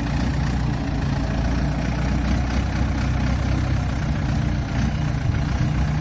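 Ford 755 backhoe's engine running steadily at a low, even idle-like hum.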